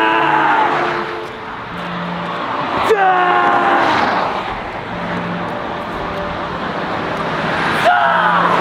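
Steady road-traffic noise. A person's short, falling cries cut through it three times: just at the start, about three seconds in, and near the end.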